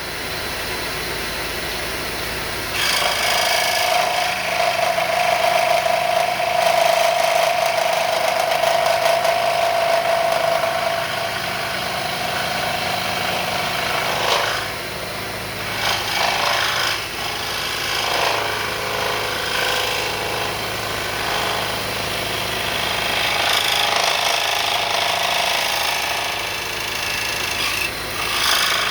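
Wen 3921 variable-speed scroll saw running at full speed with a shop vacuum drawing from its dust port. From about three seconds in, a louder rasping of the blade sawing wood joins the steady motor hum.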